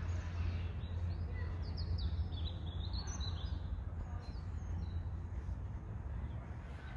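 Small birds chirping, with a quick run of short high notes about two to three seconds in, over a steady low rumble of background noise.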